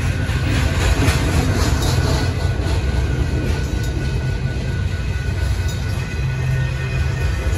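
Double-stack intermodal well cars of a Union Pacific freight train rolling past: a steady low rumble with clatter from the wheels and rail joints.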